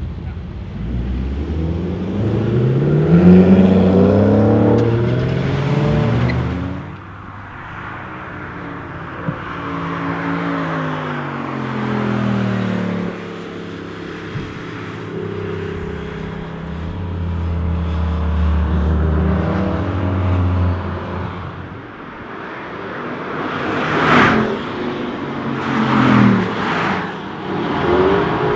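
Spyker C8 sports cars' 4.2-litre Audi V8 engines at full throttle: the revs climb for the first six seconds, then fall away and hold steady, and near the end three cars pass quickly one after another.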